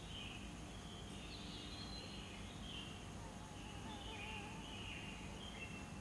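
Faint bird calls: short high chirping phrases repeating about once a second, with a thin wavering call in the middle, over a low steady hum.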